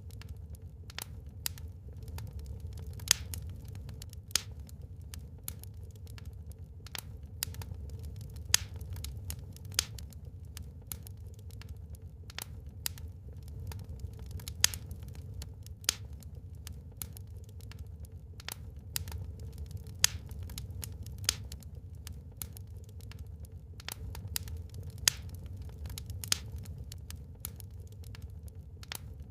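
Wood fire burning in a fireplace: irregular crackles and pops of burning wood, several of them sharp and loud, over a steady low rumble.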